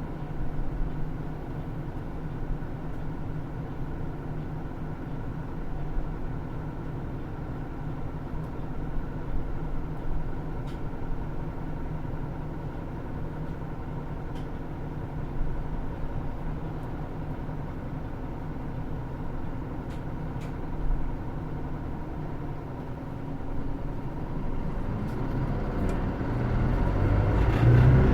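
Hino Rainbow II diesel route bus engine running steadily at a low, even pitch, with a few faint clicks. Over the last few seconds the engine grows louder and climbs as the bus starts to accelerate.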